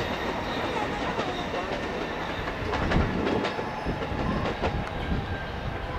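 Freight train hauled by a JR EF65 electric locomotive rolling slowly through a rail yard, its wheels clacking irregularly over the rail joints.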